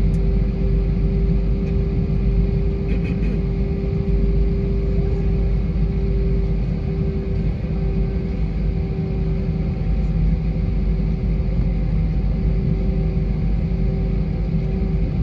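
Airbus A320 cabin noise: a steady low rumble with the even hum of its IAE V2500 jet engines, holding at a constant pitch.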